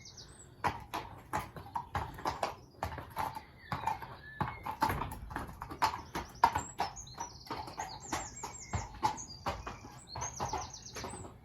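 Hooves of an anxious horse pacing round her stable, irregular knocks two or three a second: stress pacing. Birds chirp briefly a few times near the end.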